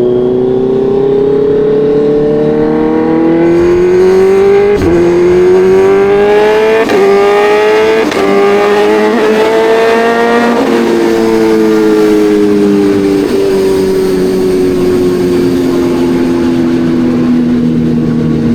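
Kawasaki Ninja 1100SX inline-four engine under acceleration, its pitch climbing with brief breaks at gear changes. About ten seconds in, the throttle closes and the pitch falls steadily as the bike slows on the overrun.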